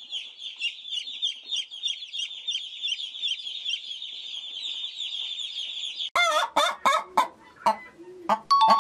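A baby chick peeping in a rapid, high-pitched run for about six seconds. Then hens start clucking in short, separate calls that carry on to the end.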